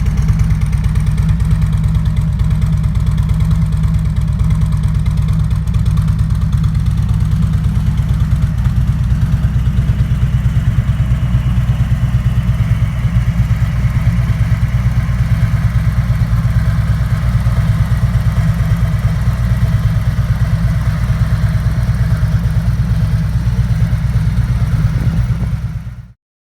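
Harley-Davidson Freewheeler trike's V-twin engine idling steadily with an even low pulse; the sound cuts off abruptly near the end.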